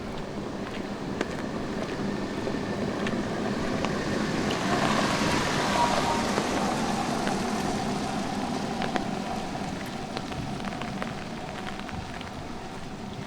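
A car passing on a wet street, its tyre hiss swelling to a peak about halfway through and then fading away. Light rain and scattered footstep clicks go on underneath.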